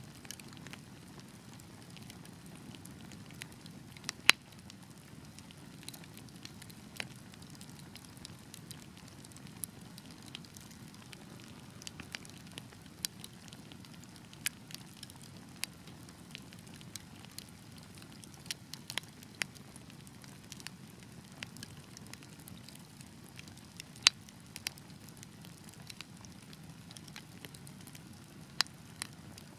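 Fire burning in a fireplace: a low steady rumble of flames under scattered crackles and sharp pops, the loudest pops about four seconds in and about twenty-four seconds in.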